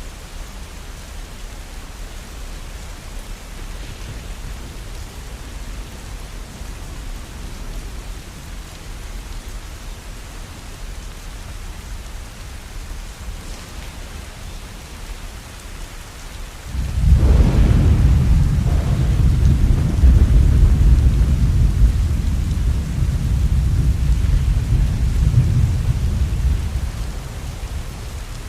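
Steady falling rain, with a long deep roll of thunder breaking in about two-thirds of the way through and rumbling for about ten seconds before fading.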